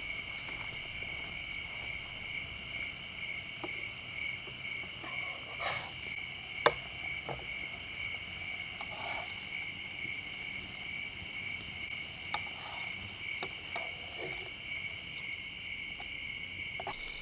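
Steady night chorus of crickets and other insects, a constant high trilling with a fainter pulsing chirp above it. A few sharp pops break through it, the loudest about a third of the way in.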